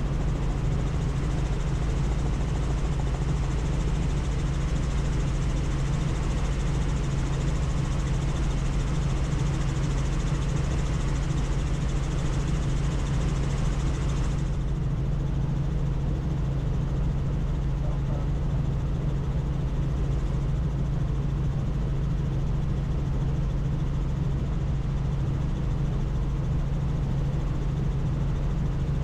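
Helicopter in flight: a steady low rotor and engine drone under rushing air. The high rushing hiss drops away abruptly about halfway through while the low drone carries on unchanged.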